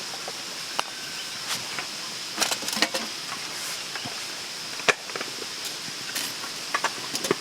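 Insects buzzing steadily in the forest, one high constant tone, with scattered light clicks and taps over it.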